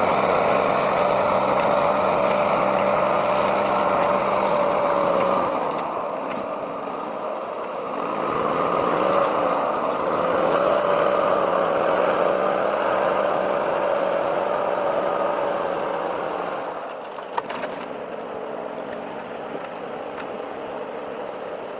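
Heavy forestry vehicle running, its engine and drive making a steady whine. The sound eases about six seconds in, builds again, and drops to a lower level near the end, with a brief knock just before the drop.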